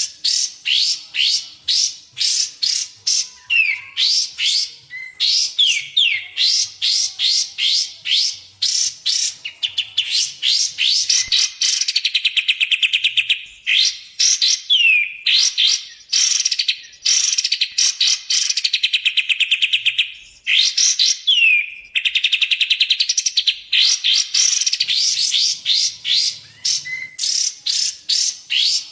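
Bulbul song from a masteran tutor recording of kapas tembak and cucak jenggot: quick, high chirps sweeping downward, several a second, broken three times by long rapid-fire trills, each ending in a sliding note.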